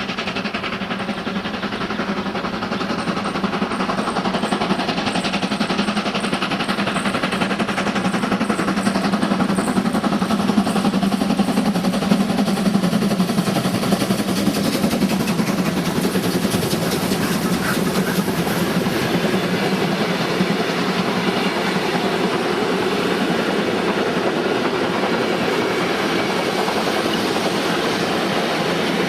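Train running on the track, with the rumble and clatter of its wheels and wagons. It grows louder over the first ten seconds or so, then holds steady.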